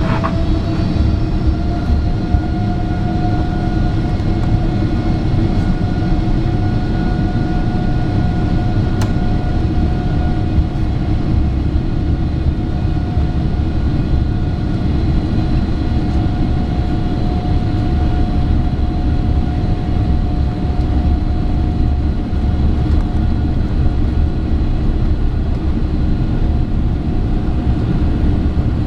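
Boeing 777-300ER's GE90-115B engines running, heard inside the cabin: a whine that finishes rising in pitch in the first second and then holds steady over a heavy rumble.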